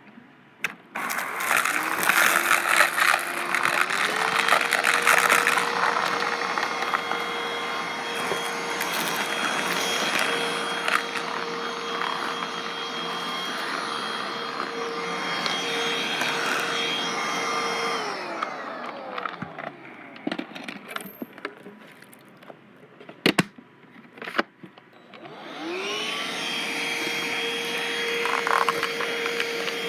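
Black & Decker vacuum cleaner switched on, its motor whine rising to a steady pitch as it sucks up crunchy debris with crackling and rattling. About eighteen seconds in it is switched off and winds down. A few sharp clicks follow, and it starts up again near the end.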